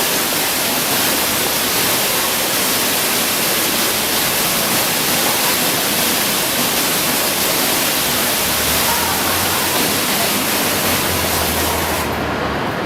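Water fountain splashing, a steady rush of falling water. About twelve seconds in, its bright hiss drops away and the sound turns duller.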